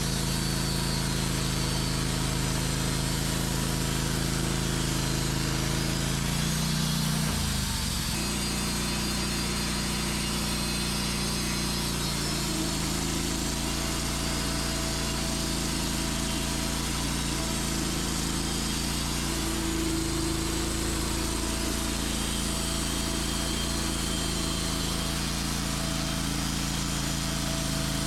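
Sawmill engine running steadily while the saw cuts through an oak log, with a shift in its note about seven seconds in.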